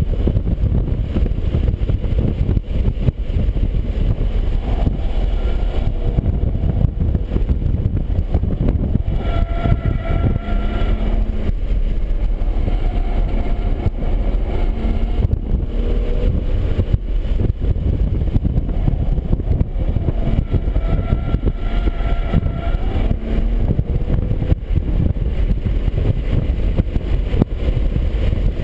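BMW 135i's turbocharged straight-six engine running hard at track speed, with road and wind noise. Its pitch rises and falls every few seconds, with a clear higher tone twice: about nine and twenty-one seconds in.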